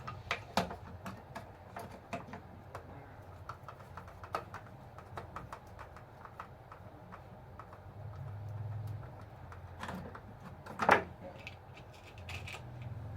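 Irregular small clicks and taps of plastic and metal parts being handled, as on a toy RC bulldozer under repair, with one louder click about 11 seconds in. A faint low hum comes in briefly twice.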